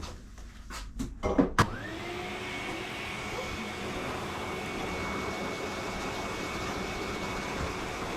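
A few clicks and knocks, then about a second and a half in a dog grooming blow dryer switches on at its low setting: the motor spins up with a rising whine and settles into a steady whir of blowing air.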